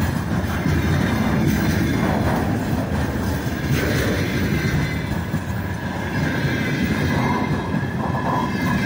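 Freight train of container flatcars rolling past close by: a steady rumble of steel wheels on the rails.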